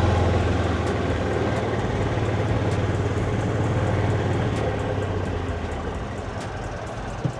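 Motor vehicle engine running with a steady low drone that fades over the last couple of seconds, and a single click near the end.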